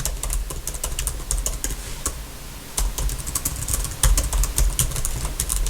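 Typing on a computer keyboard: a quick, uneven run of light key taps, some keys close together, with a low thud under the strokes.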